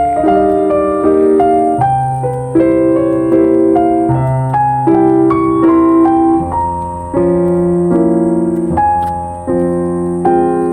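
Background piano music: slow chords, each held and changing every second or so.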